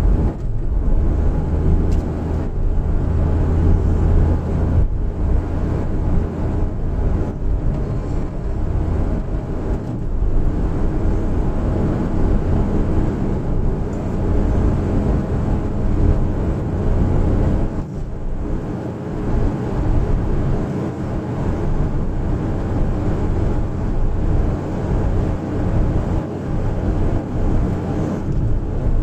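Daihatsu Hijet Cargo kei van driving, its engine running steadily under road noise, with brief dips in level about 5 and 18 seconds in.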